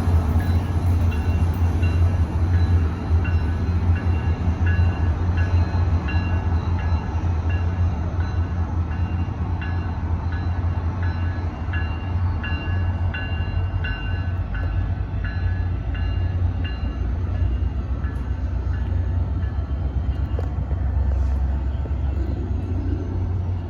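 Train running with a steady low rumble, overlaid with a run of light, irregular clicks and ticks.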